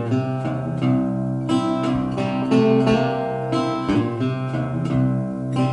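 Instrumental passage of a song: acoustic guitar strumming chords in a steady rhythm, with no singing.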